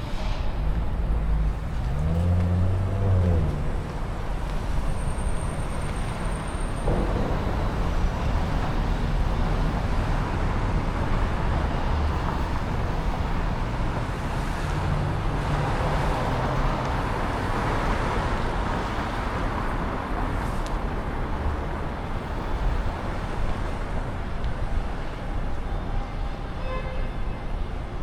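City street traffic: cars and other motor vehicles passing. One engine rises in pitch as it pulls away about two seconds in, and a louder vehicle passes near the middle.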